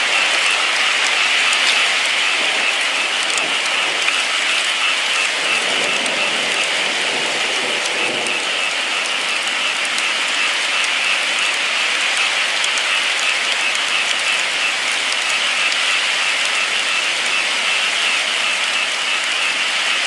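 Steady rain: an even hiss of falling rain with many fine drop taps, unchanging in level.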